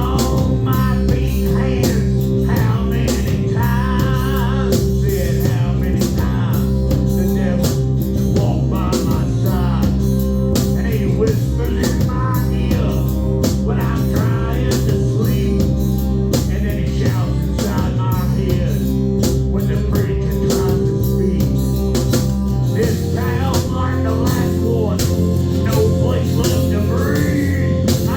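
Blues-rock band playing live: electric guitar with bent, wavering notes over a steady bass line and drum kit. The bass line changes about two-thirds of the way through.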